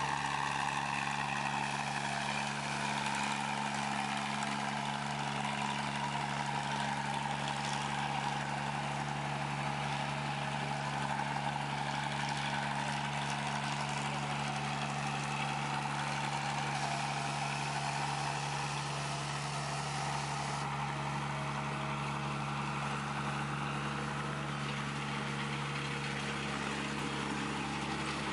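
A machine's engine running steadily with an even hum, its pitch drifting only slightly.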